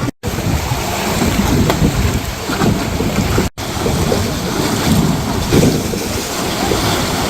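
Wind buffeting the microphone over breaking surf, a dense rushing noise, cut twice by brief dropouts where the sound goes dead for a moment.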